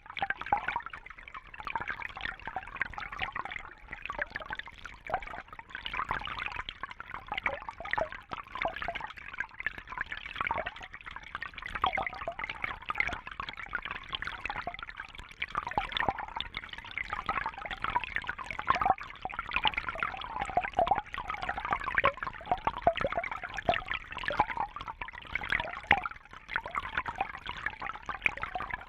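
Steady trickling, bubbling water, a continuous stream of small quick splashes and bubble sounds.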